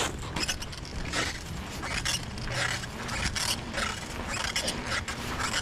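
Rhythmic scraping and rubbing, about two short bursts a second, over a low rumble: clothing rubbing against a chest-mounted camera as the rider pedals a bike.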